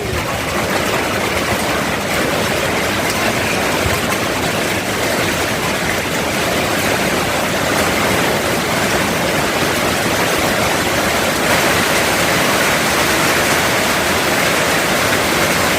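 Heavy tropical rain falling steadily, a loud, continuous, even hiss of the downpour.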